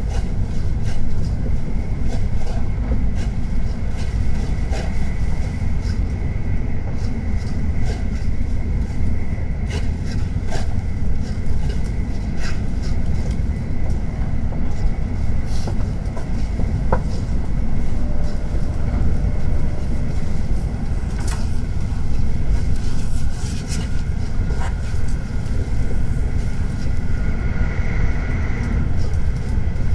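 Tokaido Shinkansen train running at steady speed: a continuous low rumble with a faint steady whine and scattered light clicks.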